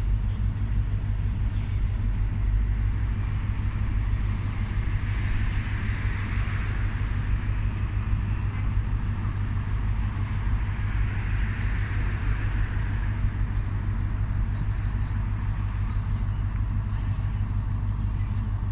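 Class 43 HST power car's diesel engine (MTU V16) idling steadily with a deep, even hum while the train stands waiting to depart. Twice, a short run of faint high chirps sounds over it.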